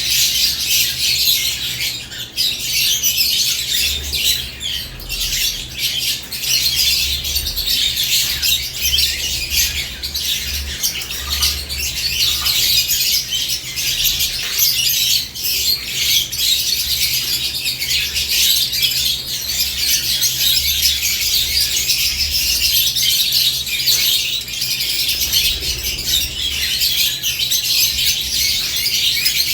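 A group of caged lovebirds chattering without a break, a dense mix of high-pitched chirps and squawks, over a faint low steady hum.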